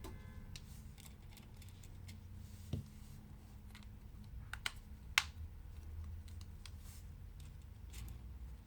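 Scattered small clicks and taps from hands and tools working on a smartphone's parts on a bench, a few sharper clicks standing out. A low steady hum runs underneath.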